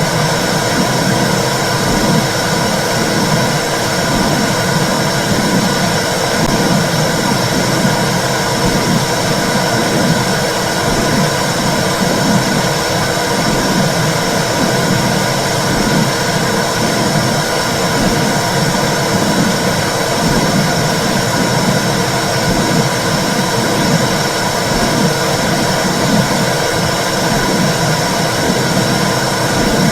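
Womb sound for soothing babies: a steady, loud whooshing noise with a wavering low rumble underneath, running without a break.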